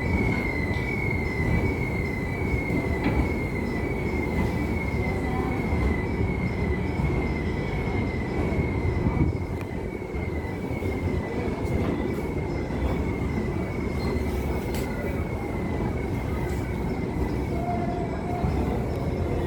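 Humsafar Express passenger train rolling into the station with a steady rumble of wheels on track. A short, high squeak repeats about every two-thirds of a second.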